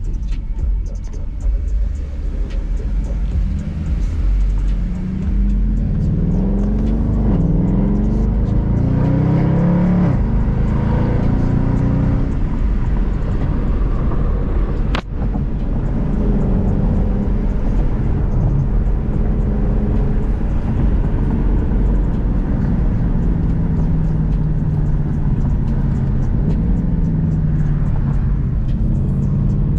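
Mercedes-Benz W204 C63 AMG's 6.2-litre V8, which has had exhaust work, heard from inside the cabin: it accelerates through several gears, its pitch rising and then dropping at each shift, then settles to a steadier cruise. A single sharp click about halfway through.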